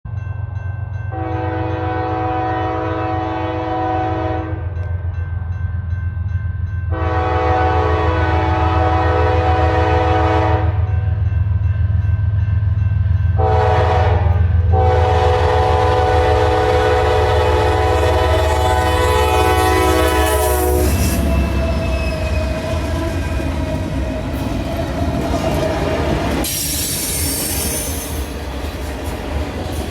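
Freight locomotive air horn sounding the grade-crossing pattern, long, long, short, long, over the heavy rumble of the passing diesel locomotives. After the last blast the engine rumble drops away and the freight cars roll by with wheel squeal and rail clatter.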